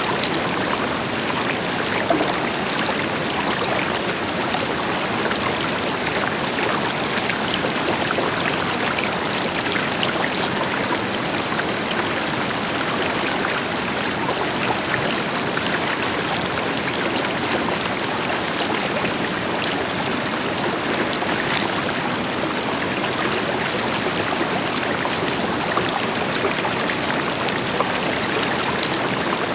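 River water flowing steadily over rocks with a distant waterfall behind it: a constant rushing with small splashes and gurgles scattered through it.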